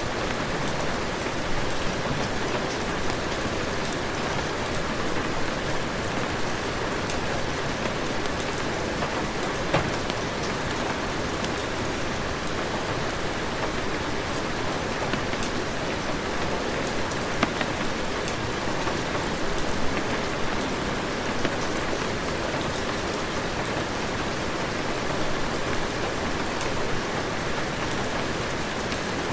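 Steady heavy rain falling, an even hiss with scattered sharp taps of drops.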